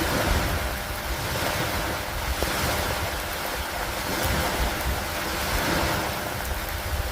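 Steady rain falling on a wooden dock, with wind and a constant low rumble beneath the hiss. The sound swells and eases gently every second or two.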